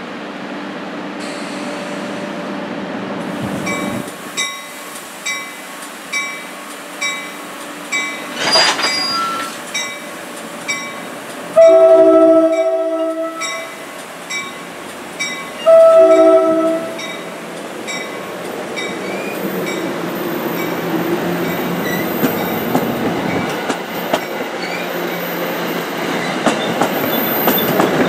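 NJ Transit commuter train's bell ringing about once a second, then two loud horn blasts, a longer one and a shorter one. The rumble and clickety-clack of the coaches rolling past then grows steadily louder.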